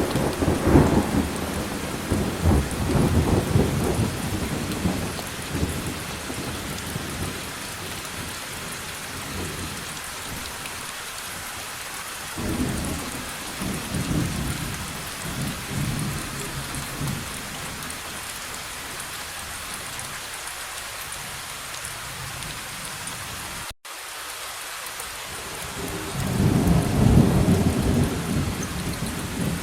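Steady rain with rolling thunder. A rumble fades over the first few seconds, another starts abruptly about twelve seconds in, and a third swells near the end. The sound cuts out for an instant at about twenty-four seconds.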